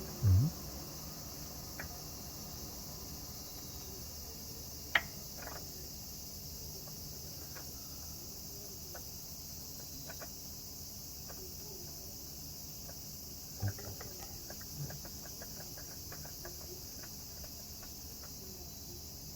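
Steady high chirring of insects, with a short low knock at the start, a sharp click about five seconds in, and a run of light clicks and ticks a little past the middle, from tools and parts being handled.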